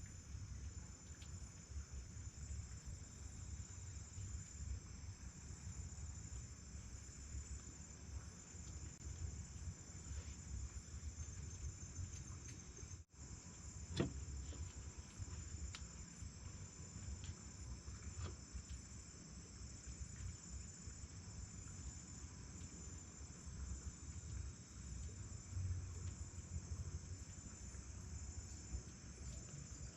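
Night insect chorus, a steady high-pitched trilling over a low rumble. A single sharp click about fourteen seconds in.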